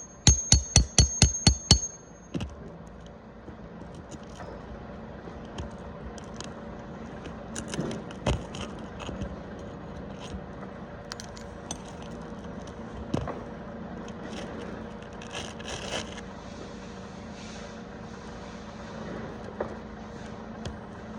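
Rapid ringing metal strikes, about six a second, like fast hammer blows, stop about two seconds in. Then come scattered scrapes, knocks and clinks of hand tools working loose a roof shingle, over a faint steady hum.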